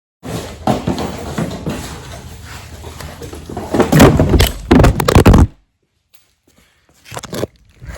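Clattering and knocking of hard objects being handled, with a cluster of loud thuds about four to five and a half seconds in, then a brief quiet and a few more knocks near the end.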